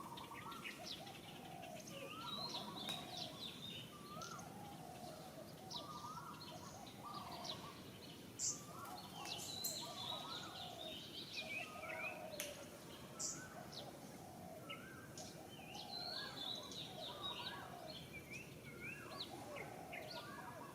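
Several birds calling and chirping over a steady outdoor hiss. Short gliding calls repeat about once or twice a second, mixed with higher, sharper chirps.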